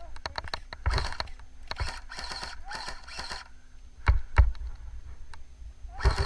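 Footsteps and rustling of a person moving through marsh vegetation: irregular swishing bursts with heavy low thuds and scattered sharp clicks.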